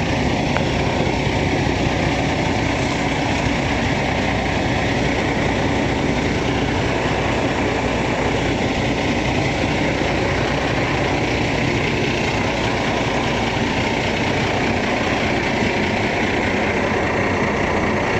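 Semi truck's diesel engine idling steadily close by, an even rumble with no change in speed.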